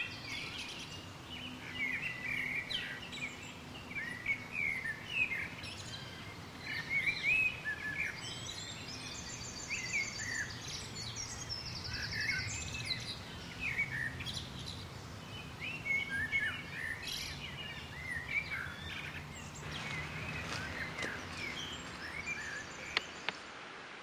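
Wild birds chirping and calling over and over against a steady outdoor background hiss, with a high, rapidly pulsed trill about halfway through and again near the end.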